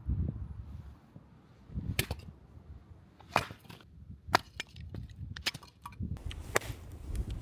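Firewood being split by hand: a series of sharp wooden knocks and cracks at irregular intervals, with dull low thuds between them.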